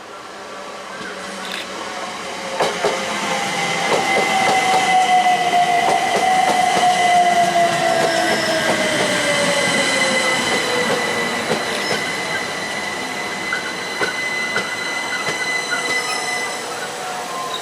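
A train passing close by, louder towards the middle. Its wheels click over rail joints, with a steady high squeal and a whine that falls in pitch.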